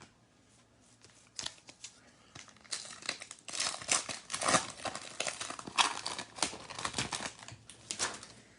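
Wrapper of a trading card pack being torn open and crinkled by hand: dense, irregular crackling that starts about a second and a half in and runs almost to the end.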